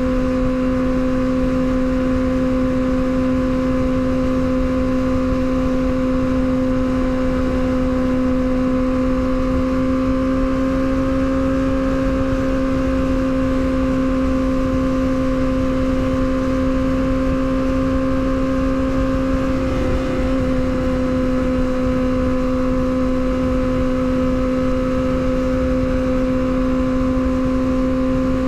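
Yamaha R6 inline-four engine cruising at a steady high rev on the highway, its pitch holding even apart from a slight rise about ten seconds in, with wind rushing over the microphone.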